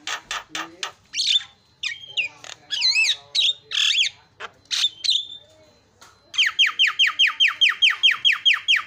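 Javan myna (jalak kebo) singing a varied song of harsh squawks and gliding whistles. About two-thirds of the way in it breaks into a fast, even string of falling whistled notes, about seven a second.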